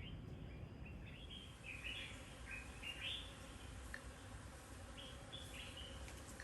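Birds calling faintly outside, a run of short chirping notes, many in the first half, over low background noise.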